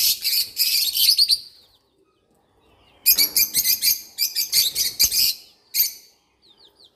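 Birds chirping in fast, dense, high-pitched runs: one spell at the start, a pause, a second spell from about three seconds in, and a short last burst near the end.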